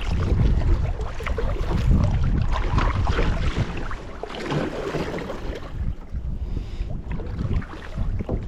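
Water splashing and sloshing around a kayak as it is paddled, with many small splashes and a low rumble of wind on the GoPro's microphone.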